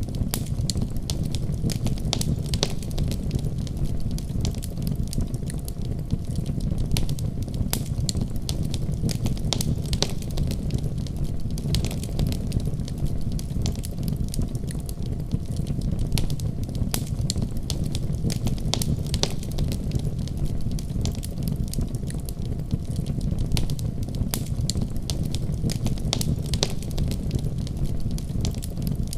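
Fire in a fireplace crackling: frequent, irregular sharp pops and snaps over a steady low rumble of the flames.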